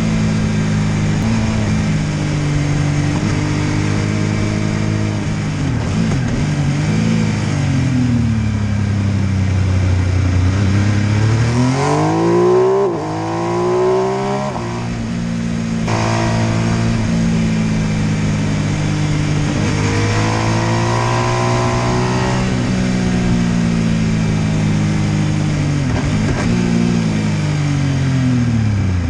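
MV Agusta F3 800 three-cylinder motorcycle engine running on the road. Its revs climb sharply twice around the middle with a sudden drop in between, hold steady, rise again later and fall away near the end.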